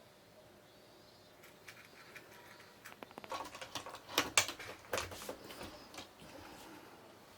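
A kitten scrambling and playing, a quick flurry of taps, scratches and small knocks starting about three seconds in, with the loudest knocks just past the middle, then dying down.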